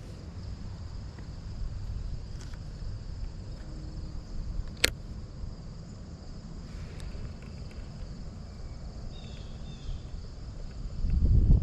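Insects trilling steadily in one high, even band over a low rumble, with a single sharp click about five seconds in and the low rumble swelling louder near the end.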